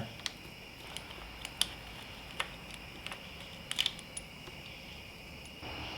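Quiet workshop room tone with a steady faint high-pitched hum and a few scattered light clicks.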